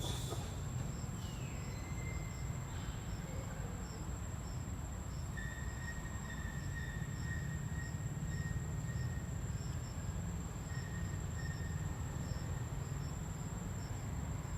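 Insects chirping: a steady high thin drone with a regular row of short, higher chirps about one to two a second, over a constant low rumble.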